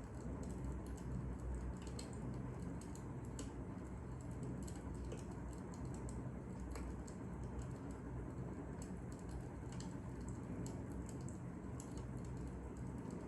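Crackling fire: irregular small pops and snaps over a steady low rumble.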